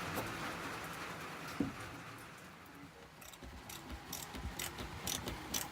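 A single knock, then from about three seconds in a hand ratchet clicking in short irregular runs, a few clicks a second, as screws are worked loose by hand.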